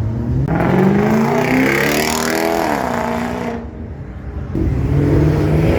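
Car engine accelerating hard, its pitch climbing for about two seconds and then sagging. It drops away for about a second near the middle, then climbs again toward the end.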